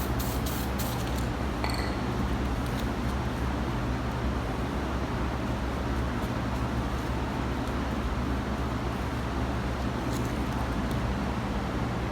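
Steady low droning hum of background machinery or traffic, with a few light clicks in the first second.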